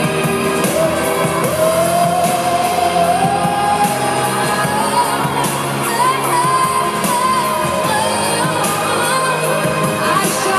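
Live pop music with a woman singing long held notes over a full band.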